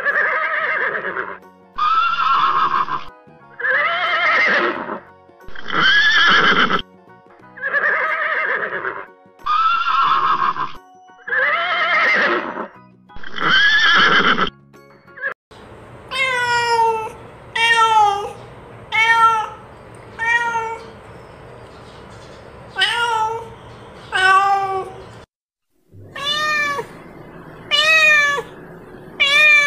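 An animal calling over and over. First come long calls that rise and fall in pitch, about one every two seconds. After a short break come quicker, shorter calls that slide down in pitch, in runs of two or three.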